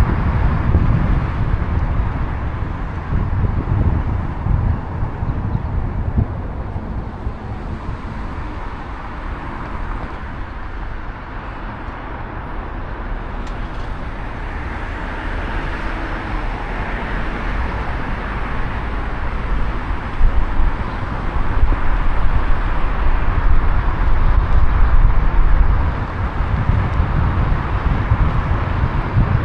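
Outdoor road ambience: a steady rumble of traffic, mixed with wind on the microphone, swelling louder about two-thirds of the way through.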